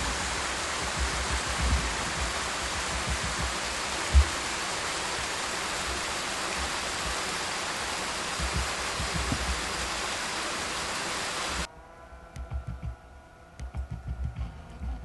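Steady rushing roar of a partly frozen waterfall, with a low thump about four seconds in. Near the end the roar cuts off suddenly, leaving only faint low rumbles and a faint hum.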